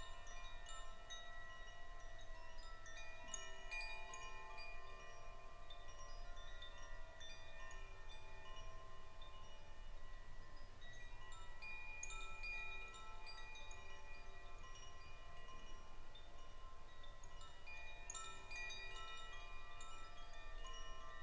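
Wind chimes ringing: clusters of struck metal tones that overlap and ring on, with fresh flurries about 4, 12 and 18 seconds in.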